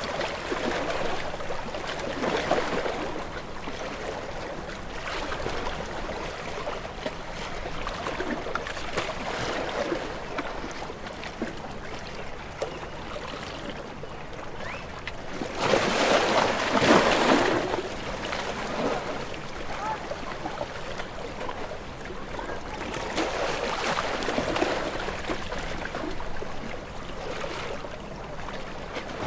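Ocean waves washing in, a steady wash of water noise rising and falling in slow swells, the biggest about sixteen seconds in.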